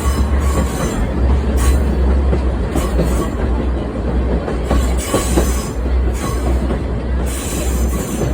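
Torokko sightseeing trolley train running on the rails: a steady heavy rumble and rattle of the cars and wheels.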